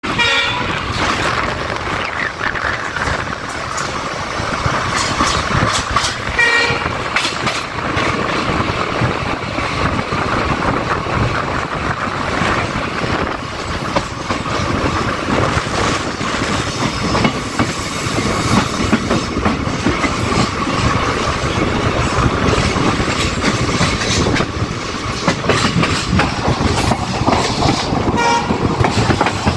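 Passenger train coaches running along the track, heard from beside the moving coach: a steady rumble and rush of wind with the clickety-clack of wheels over rail joints. Brief high tones sound at the start, about six seconds in and near the end.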